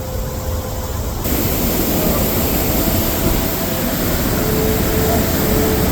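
Waterfall of fast snowmelt water: a steady rushing noise of falling and churning water, which gets louder and brighter about a second in.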